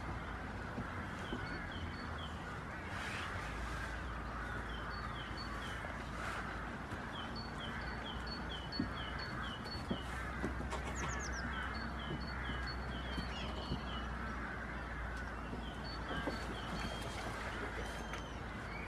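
A small songbird singing a repeated two-note phrase, a short high note followed by a lower falling one, in runs of several phrases again and again, over a steady hiss.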